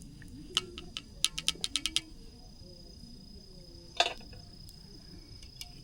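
A quick run of about nine light clicks, then a single louder clink about four seconds in, over a faint steady high tone.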